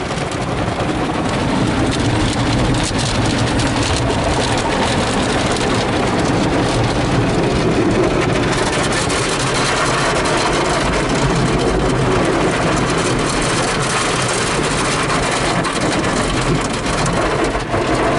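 Automatic tunnel car wash heard from inside the car's cabin: a steady, loud, dense rush of spraying water and wash machinery working on the car.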